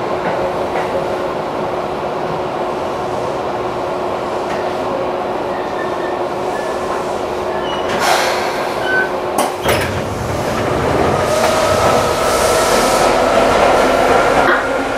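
Seibu 3000 series electric train running, heard from behind the cab: steady running noise, with two sharp knocks from the wheels over points about eight and nine and a half seconds in. After that the rumble grows louder and a motor whine climbs slightly as the train picks up speed.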